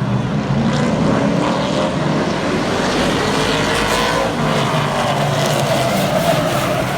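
Super Truck race trucks' engines running on the track, their pitch rising and falling.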